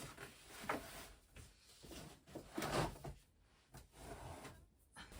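Objects being handled and set down: a few soft knocks and rustles, with short pauses between them.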